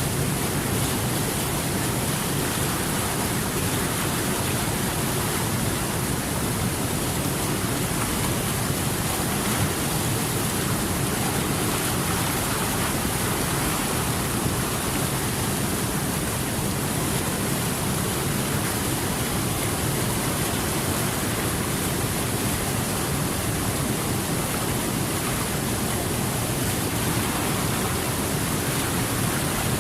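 Steady rushing water, an even unbroken hiss like a waterfall or fast stream.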